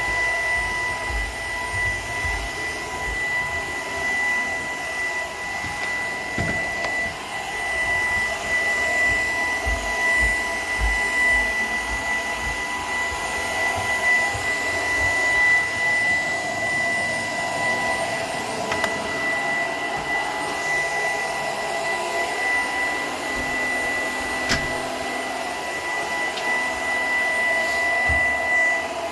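Shark PowerDetect vacuum cleaner running steadily with a high whine, with occasional low bumps.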